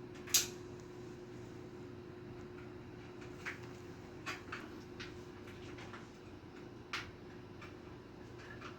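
Scattered light clicks and taps of small tools and parts being handled, the sharpest about half a second in, over a steady low hum.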